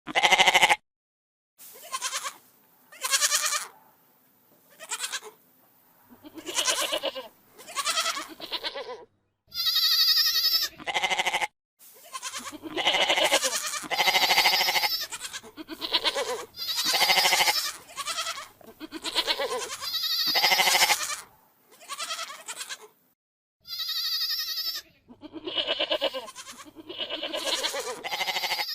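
Goats bleating over and over, one call after another, each about a second long with short silent gaps between; a couple of the calls are higher-pitched.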